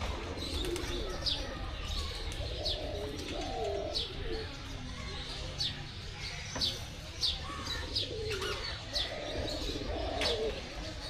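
Birds calling: short, high, downward-sweeping chirps repeating about once or twice a second, over lower cooing calls.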